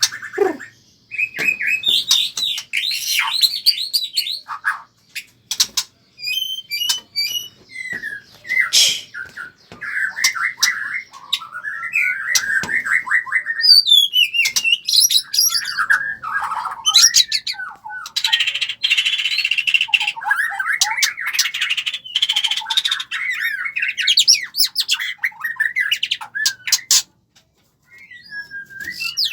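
Many caged birds calling over one another: rapid chirps, trills and harsh squawks, broken by sharp clicks.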